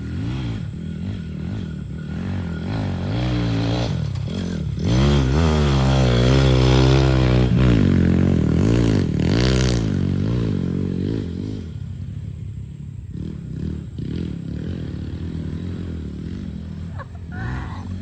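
Small engines of a Raptor 90 ATV and a YCF 160 pit bike revving up and down as they lap a track. They are loudest as they pass close, about five to ten seconds in, then fade back.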